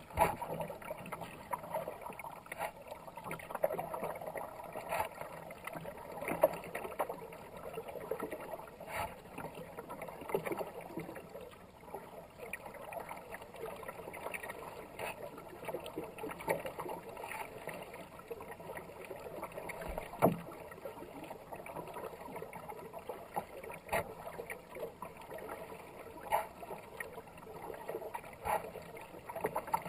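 Kayak paddle strokes dipping and splashing in fast-moving river water, with a few sharp knocks.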